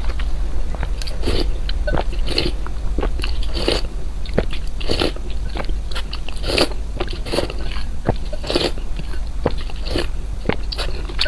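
Close-miked person chewing and biting crunchy food, with a run of irregular crunches about one every second.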